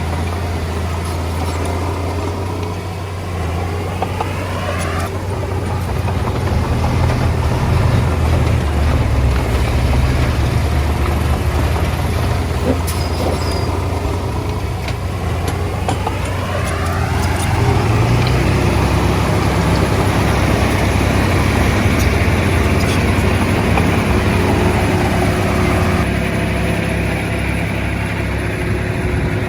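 Komatsu D20A bulldozer's diesel engine working under load, its pitch rising as it revs up about a second in and again about halfway through.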